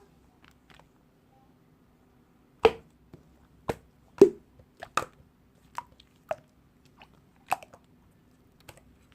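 Slime being worked by hand, giving sharp, irregular pops and clicks. After a quiet first two seconds, about seven loud pops come at uneven intervals, with fainter clicks between them.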